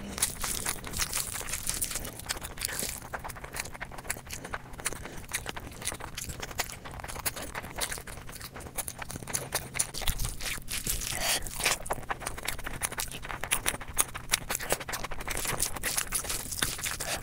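Close-miked ASMR eating: a person chewing food with wet mouth clicks and smacks in a rapid, irregular series.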